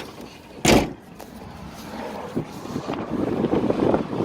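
Subaru Legacy BG5's flat-four engine running with scattered short knocks, getting louder in the second half. There is one loud thump about a second in. The owner is sure the knock is neither a bearing shell nor a hydraulic lash adjuster.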